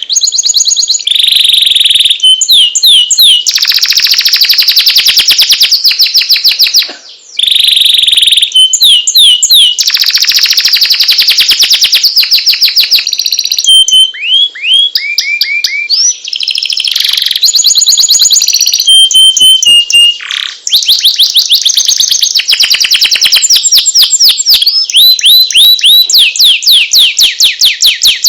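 Male canary in breeding condition singing a long song of fast trills of repeated notes, pure whistled tones and quick rising and falling slurs. There is a brief pause about seven seconds in.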